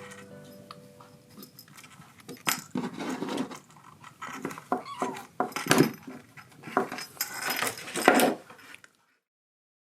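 Irregular clattering and rustling, with short knocks and scrapes in quick bursts for several seconds, cutting to silence near the end.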